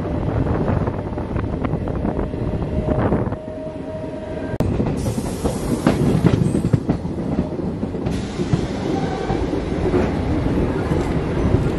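Local passenger train running, heard from an open coach doorway: a steady rumble with wheels clicking over the rail joints, and a short steady whine about three seconds in.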